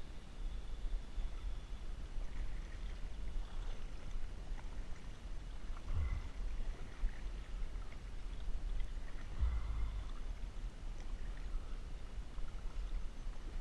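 Water sloshing and trickling around a kayak as the paddle works, with a steady low rumble under it and two brief louder swells, about six and nine and a half seconds in.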